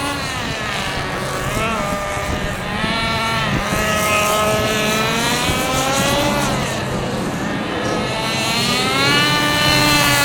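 Small nitro-fuelled RC car engine running hard, its high-pitched whine rising and falling as the throttle is worked through the corners.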